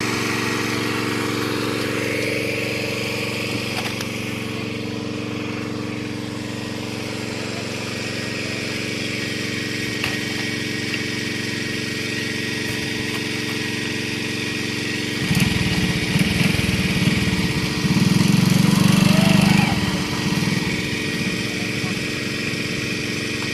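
A small engine running steadily at one speed, with a louder, rougher low rumble for about five seconds from about fifteen seconds in.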